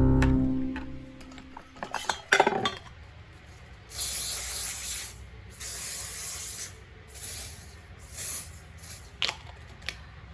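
Background music fading out, a few clicks, then four hissing spray-like bursts of up to about a second each, with short gaps between them.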